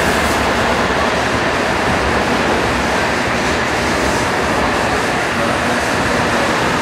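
N700 series Shinkansen train running alongside the platform as it slows into the station: a loud, steady rush of wheel and running noise.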